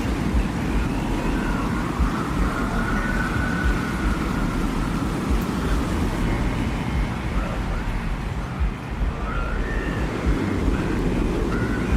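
Desert wind in a sound-designed ambience: a steady, gusting low rumble with a faint, thin whistle that slowly rises and falls in pitch above it.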